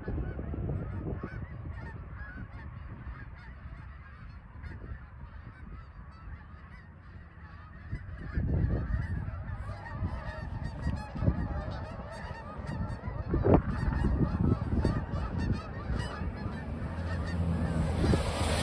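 A flock of geese honking, many calls overlapping over a low rumble, growing louder and busier about halfway through.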